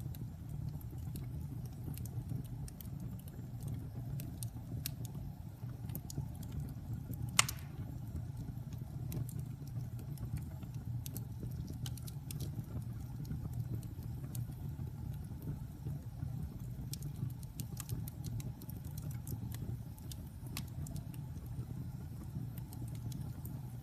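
Wood fire burning in a fireplace: a steady low roar with scattered crackles throughout and one much louder pop about seven seconds in.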